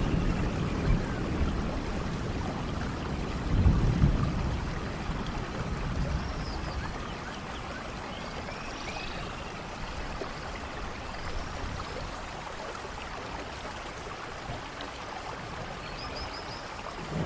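Steady rainfall in a rainforest thunderstorm, with a low rumble of thunder swelling about four seconds in and then easing off. A few short high chirps sound faintly over the rain.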